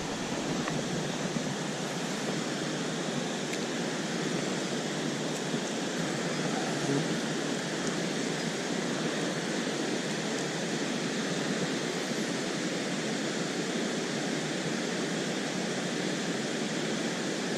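Small waterfall after heavy rain, water pouring into a pool in a steady, even rush.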